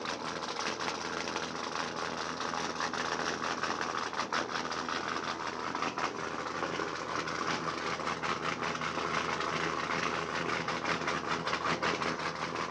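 V8 engine of an Audi A5 drift car idling steadily, with a fast even chatter of firing pulses.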